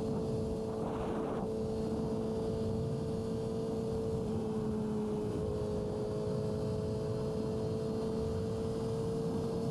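Yamaha R6's inline-four engine running at a steady speed while cruising, its pitch dipping slightly a little past the middle and then holding steady. A brief rush of noise comes about a second in.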